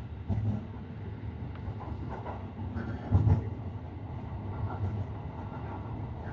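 Train running, heard from inside the carriage: a steady low rumble with a few irregular thumps, the loudest about three seconds in.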